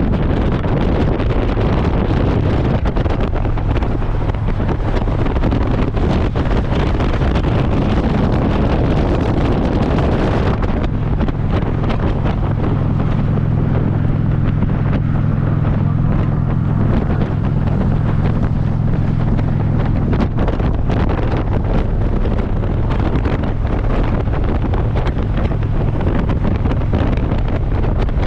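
Wind buffeting the microphone on a moving Harley-Davidson motorcycle, over the engine's steady low drone. About ten seconds in the wind noise eases and the engine hum stands out more for several seconds.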